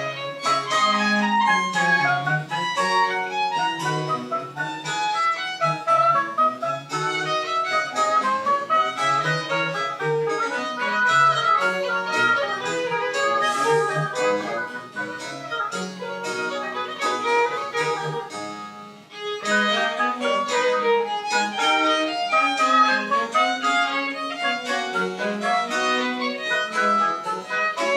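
Chamber ensemble playing French Baroque music, a violin carrying a busy melodic line over a lower bass line, with a short break in the phrasing about 19 seconds in.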